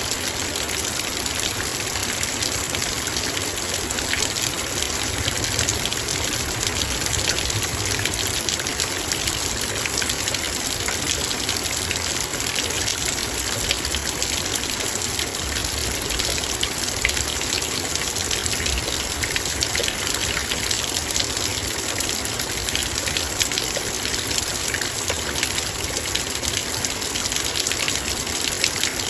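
Heavy rain falling on a metal bowl: a steady, dense patter of countless drop ticks over a constant wash of rain.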